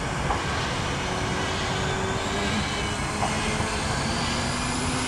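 Steady drone of radio-controlled model helicopters and aircraft flying at the field, with a few held engine or rotor tones that drift slightly in pitch.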